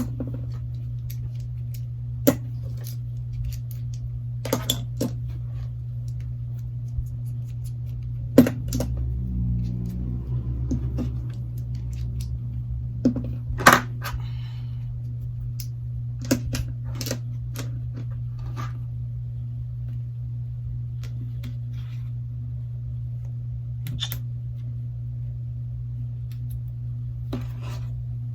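Scattered sharp clicks and knocks of small plastic clamps and tools being handled on a work surface, about a dozen over the stretch, with a brief rattle a little before the middle, all over a steady low electrical hum.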